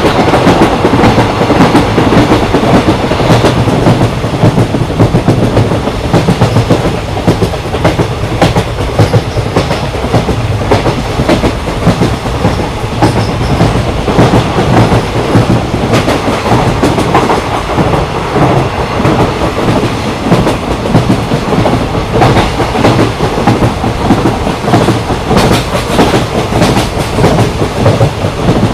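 Indian Railways express passenger train running at speed: a steady rumble with the clickety-clack of wheels over rail joints.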